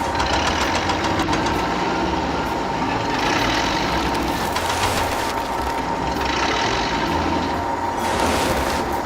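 A small motor running steadily with a constant high whine and an uneven rumbling beneath, typical of a miniature DIY tractor's motor.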